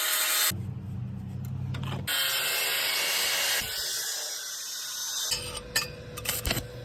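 Power saw cutting through a car's steel exhaust pipe to remove the resonator, in several stretches that start and stop abruptly, with a few sharp knocks near the end.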